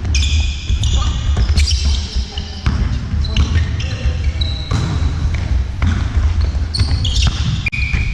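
Basketball game on an indoor court: the ball bouncing, short high squeaks of trainers on the floor, and players calling out.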